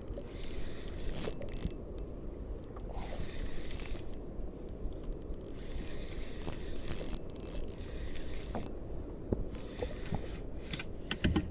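Fishing reel being cranked, its gears clicking and whirring in short spells, as a hooked fish is reeled in under load.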